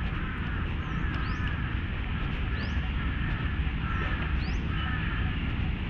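Park birds calling: a thin rising whistle repeats about once a second, alongside a repeated lower call, over a steady low rumble.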